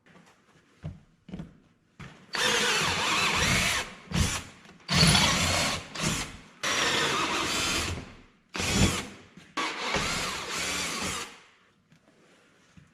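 Power drill running in about six bursts of a second or two each, from about two seconds in until about eleven seconds in, with short pauses between them: drilling the bolt holes to mount a part, laid out with a supplied stencil.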